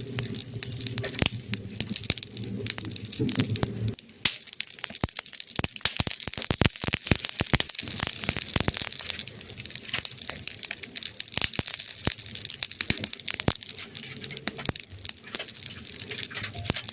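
Burning wood crackling and popping: many irregular sharp snaps over a steady hiss. A low rumble of the flames under the crackle stops abruptly about four seconds in, leaving the pops on their own.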